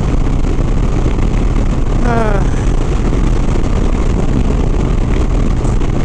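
Harley-Davidson Sport Glide's V-twin engine running at steady highway speed under heavy wind rush on the helmet microphone. A brief falling tone comes about two seconds in.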